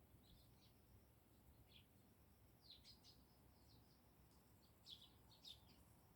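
Faint chirping of Eurasian tree sparrows: short, scattered chirps over a quiet background, a few of them louder about three seconds in and again near the end.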